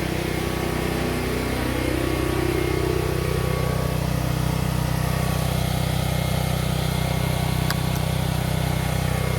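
An engine idling steadily, with one brief click about three-quarters of the way through.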